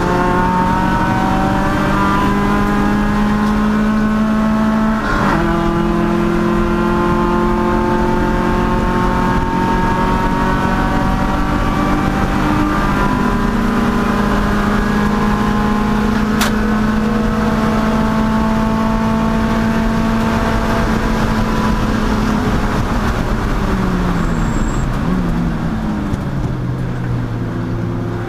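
Race car engine under load while lapping a track, revs climbing steadily, with a sudden drop in pitch about five seconds in as it shifts up. The pitch then climbs again for a long stretch before the revs fall away near the end as it slows.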